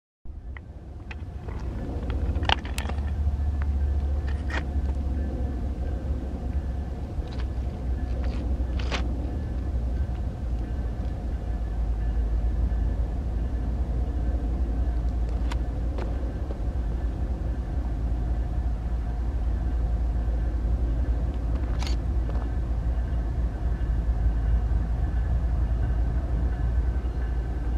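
BNSF freight train rumbling steadily as it rolls by, with a few sharp metallic clanks and a faint steady whine over the low rumble.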